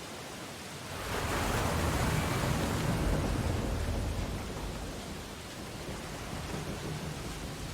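Ocean waves breaking on a beach: one wave surges up about a second in, washes loudly for a few seconds, then eases back into a steady hiss of surf.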